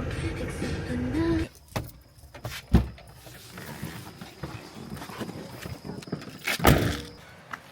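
A short pitched tune that cuts off about a second and a half in, then the sounds of a vehicle being got into: keys jangling and two heavy door thumps, the louder one near the end.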